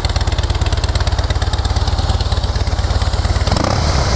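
2008 Harley-Davidson Softail Custom's 96-cubic-inch V-twin idling with an even, fast beat, running clean with no odd engine noise. Near the end the steady beat gives way to a rougher sound.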